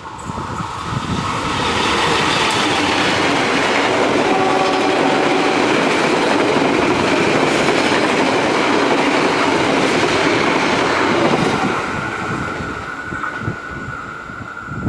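A train passing through a station, its wheels clattering on the rails. The sound builds over the first couple of seconds, stays loud for about nine seconds, then fades, leaving a steady high tone near the end.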